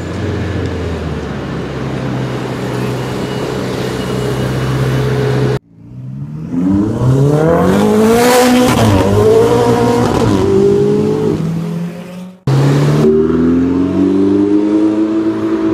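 Ferrari 488 GTB's twin-turbo V8 in three cuts. First it runs steadily at low revs. Then it accelerates loudly, its pitch climbing, dipping and climbing again before falling away, and finally it pulls away once more with the revs rising.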